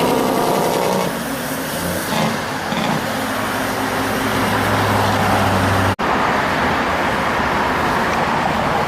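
Heavy trucks and road traffic passing, with a steady low engine drone for the first six seconds. The sound drops out for an instant about six seconds in, then returns as a steady rush of traffic.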